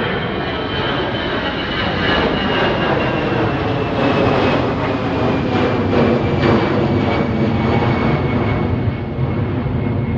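Departing jet airliner's engines at takeoff power as it climbs past, a loud rush of engine noise with a high whine that slowly falls in pitch as the aircraft goes by.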